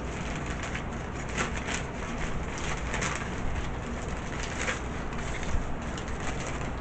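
Close-up chewing and crunching of Popeyes fried chicken, with irregular crackly bites over a steady low hum.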